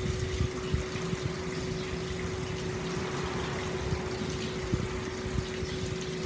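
Hot spring water pouring steadily into an open-air stone bath, a continuous splashing gurgle. A steady low hum runs beneath it.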